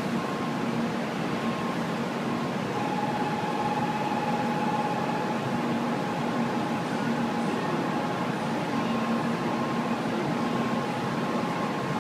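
Stationary 800 Series Shinkansen idling at the platform: a steady hum and hiss from the waiting train, with a thin steady tone coming in about three seconds in.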